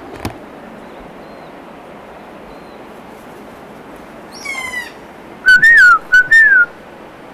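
Kea, the New Zealand alpine parrot, calling: a falling shriek about four and a half seconds in, then three loud, short, wavering calls a second later. Steady wind hiss lies underneath.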